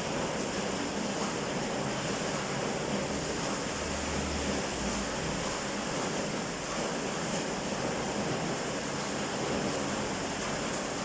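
Heavy rain pouring down steadily, a continuous even rush of falling water.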